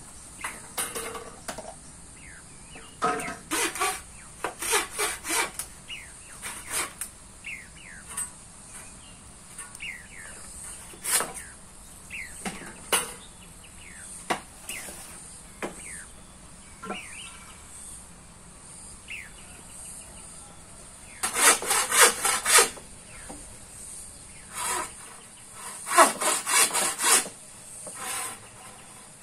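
Bursts of quick scraping strokes, several a second, coming in groups with pauses between. Faint short chirps and a steady high hiss sound between the bursts.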